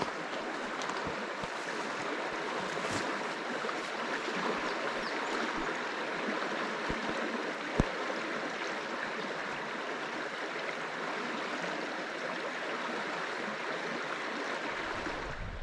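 Small stream flowing, a steady rush of running water, with one sharp click a little past halfway.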